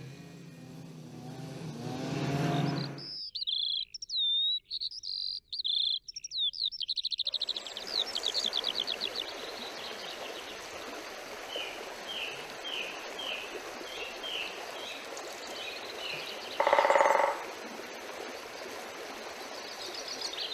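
Songbirds singing: a phrase of clear whistled notes, then a fast trill and a run of repeated short chirps over the steady rush of a mountain stream. A low hum fades out in the first three seconds, and one loud, brief harsh call cuts in about three-quarters of the way through.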